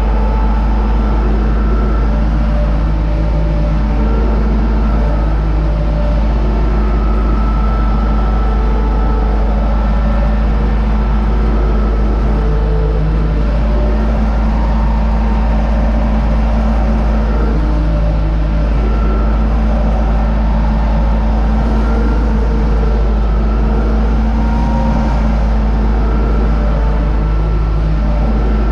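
U650 tractor's four-cylinder diesel engine running steadily under load while pulling a seed drill, with heavy low rumble and only slight shifts in engine pitch.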